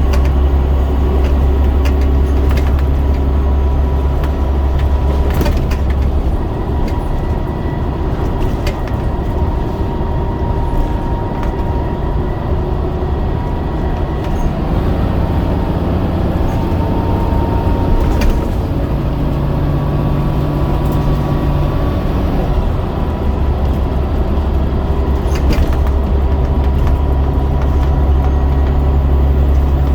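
Scania DC9 9-litre diesel engine of a double-decker bus running under way, with a low, heavy drone that eases off about six seconds in and comes back strongly near the end. Occasional short rattles and knocks from the bus body sound throughout.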